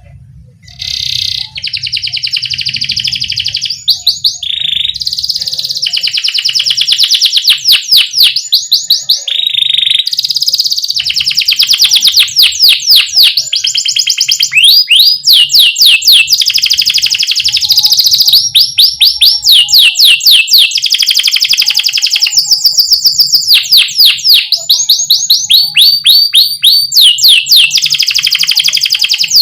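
Domestic canary singing loudly: rapid rolling trills and fast runs of falling chirps, beginning about a second in and going on in long phrases with short breaks.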